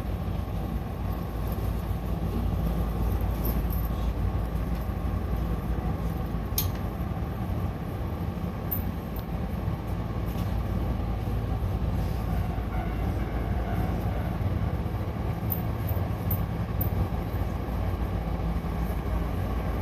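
Hankyu electric commuter train running on the line: a steady low rumble with a hum underneath and a few brief clicks from the track, the sharpest about six and a half seconds in.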